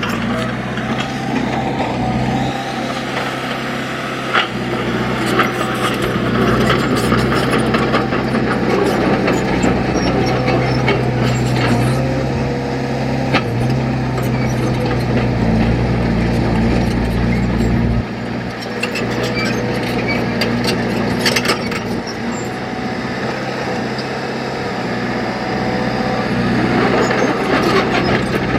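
Heavy construction machine's diesel engine running, its note rising and dropping several times as the load changes, with scattered knocks throughout.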